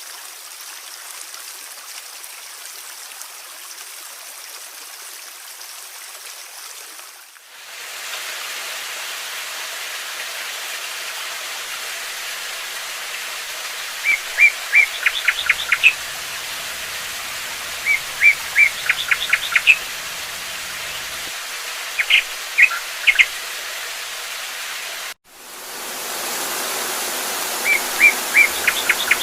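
Steady rushing water, which fades down and comes back louder about a quarter of the way in. Over it a songbird repeats the same short phrase four times, a few clear notes followed by a quick trill. Near the end the sound cuts out suddenly and fades back in.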